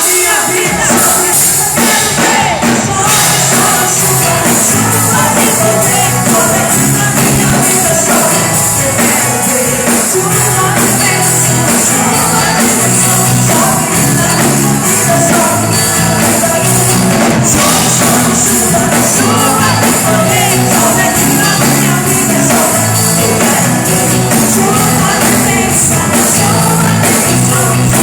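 Live worship band playing a gospel song, with singing over drums, bass and a tambourine, loud and steady.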